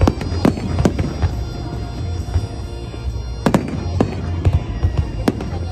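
Fireworks exploding overhead: a series of sharp bangs, three in quick succession at the start and another four from midway on, over a steady low rumble, with music playing underneath.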